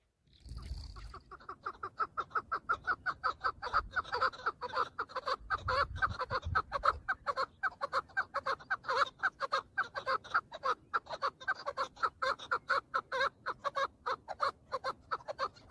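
Chukar partridge calling in a rapid, steady series of clucking notes that starts about a second in and keeps going.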